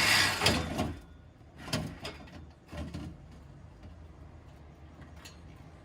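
A power tool running stops about a second in, followed by a few short, scattered knocks of metal tools or parts.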